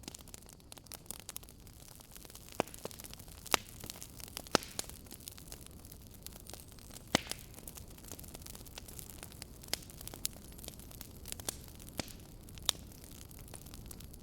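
Fireplace fire crackling: irregular sharp pops and snaps, a few much louder than the rest, over a steady low hiss and rumble.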